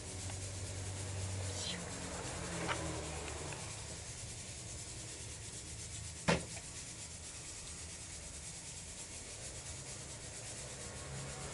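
Quiet steady low hum and hiss with faint rubbing noise, and one sharp click about six seconds in.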